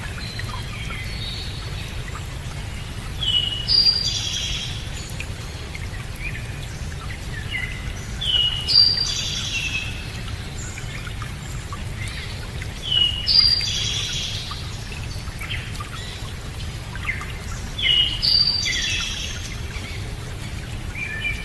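A songbird repeating the same short, high song phrase about every five seconds, four full times, over a steady low background rumble.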